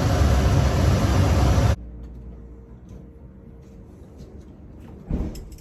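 A loud, steady rushing noise, like air moving or a fan running, cuts off suddenly about two seconds in. Quiet room tone follows, with a brief rustle shortly before the end.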